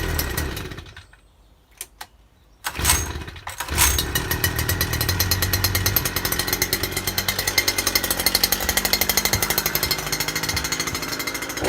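Stihl FS240 brush cutter's two-stroke engine being pull-started on choke: it fires briefly and dies, then on the next pull catches about three seconds in and runs steadily with a rapid, even beat.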